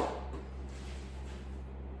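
A sharp exhale of effort dies away right at the start. Then only a steady low hum of room tone remains.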